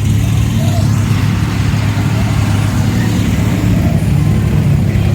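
Vehicle engine running steadily, a low, even drone that holds at one pitch throughout.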